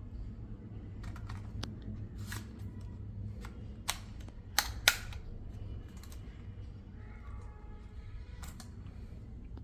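A few sharp clicks and snaps of hard plastic as a DJI Mini 2 SE drone and its parts are handled during set-up; the loudest two come close together about five seconds in, over a steady low hum.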